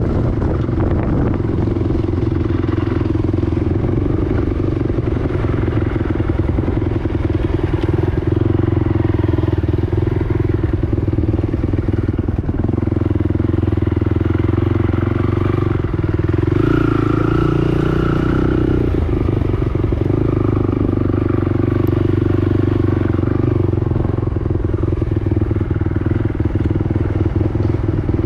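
Honda TRX450R quad's single-cylinder four-stroke engine running steadily while riding. The engine note shifts briefly a little past halfway.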